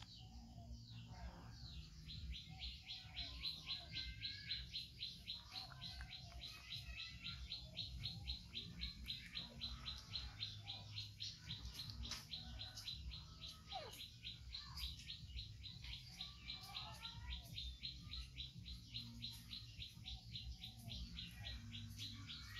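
Birds chirping, with one high, even chirp repeated several times a second through most of it, and other short whistles and chirps scattered among it.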